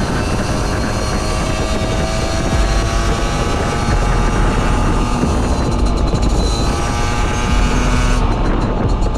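Beta RR 50's 50cc two-stroke engine through a Leovince exhaust, pulling under load with its pitch climbing slowly over the first few seconds, then easing off about eight seconds in. Wind rumble on the camera microphone.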